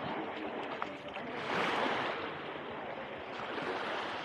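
Small Mediterranean waves washing onto the beach, a steady rush with one louder surge about a second and a half in.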